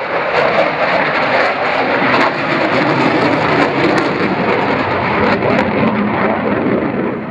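Eurofighter Typhoon's two Eurojet EJ200 turbofan engines at high power on a display pass: a loud, steady jet rush with scattered crackling.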